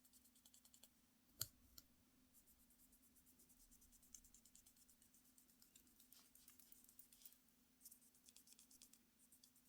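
Faint rapid fine ticking and scratching from small handling work, with one sharp click about one and a half seconds in, over a faint low steady hum.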